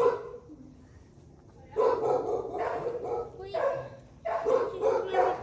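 A dog barking in a series of drawn-out calls, starting about two seconds in, with short gaps between them.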